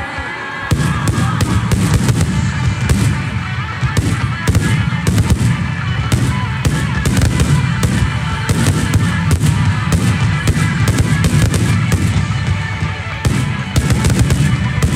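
Fireworks finale barrage: many aerial shells bursting in rapid, overlapping succession, a continuous rumble of booms and crackles that starts suddenly about a second in. Music plays faintly underneath.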